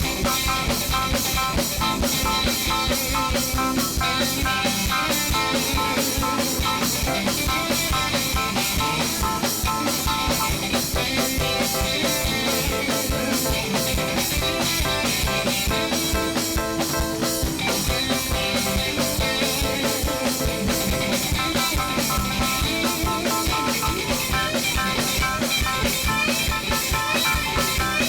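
Live band playing an instrumental groove: drum kit keeping a steady beat under electric guitar, with no singing.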